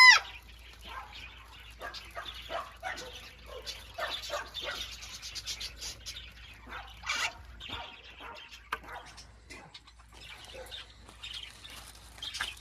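Birds chirping in many short, scattered calls, with one loud high call that rises and falls right at the start.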